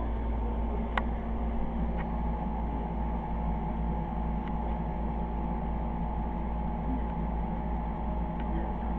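Steady hum of small electric cooling fans, with a faint click about a second in and another a second later.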